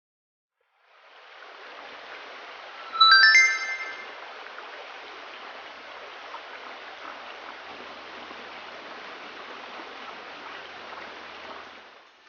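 Steady rush of a small stream, fading in about a second in and stopping near the end. About three seconds in, a short bell-like chime of four or five notes steps upward and is the loudest sound.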